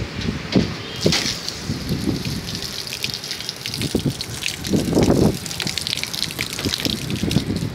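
Water gushing and splashing, with gusts of wind buffeting the microphone.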